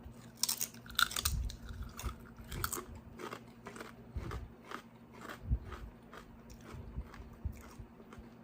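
A person biting into and chewing Maxicorn roasted corn chips: a run of crisp crunches about three a second, loudest in the first second and a half.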